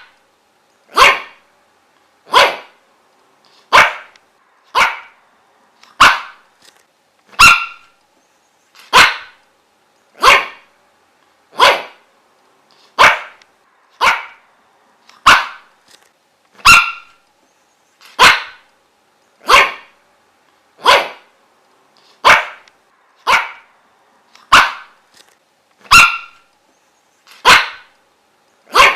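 A dog barking single barks over and over, about one bark every second and a bit, each bark short with silence between.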